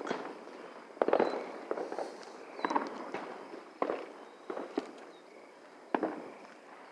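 Distant consumer fireworks going off in a string of separate bangs, roughly one a second, each trailing off in an echo.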